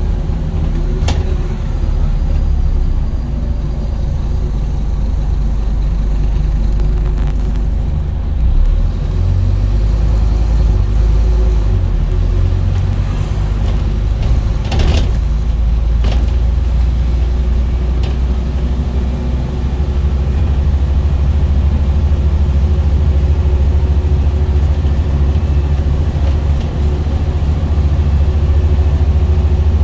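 Scania N230UD Enviro 400 double-decker bus with its five-cylinder diesel engine running on the move: a steady low rumble, with a few short knocks or rattles at about a second in and around halfway.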